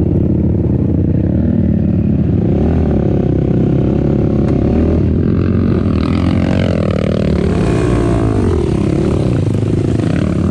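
Racing ATV engine running hard, its revs rising and falling continuously, with some clatter from the machine.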